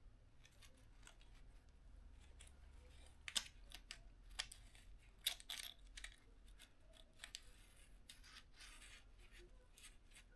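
Faint, scattered clicks and snips of hand work on a motorcycle's wiring loom as it is stripped out, with two sharper clicks about a third and halfway in and some rustling near the end.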